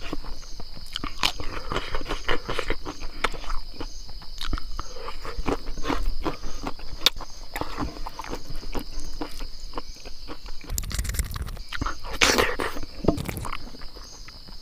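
A person chewing food close to the microphone, a dense run of small irregular mouth clicks, over a steady high-pitched hum. There is a brief low rumble near the end.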